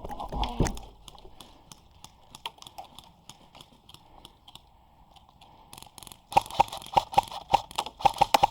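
Footsteps crunching through dry leaves and brush: scattered steps at first, then a quick run of sharp crunches, about four or five a second, from about six seconds in. A low thump comes about half a second in.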